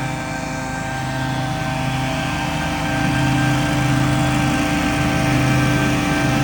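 Engine of riding outdoor power equipment running steadily at working speed, getting a little louder about three seconds in.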